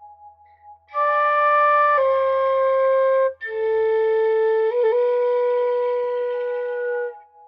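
Background music: a flute plays slow, long-held notes over a soft ambient pad. The flute comes in about a second in, plays two phrases with a brief break between them, and stops shortly before the end, leaving only the pad.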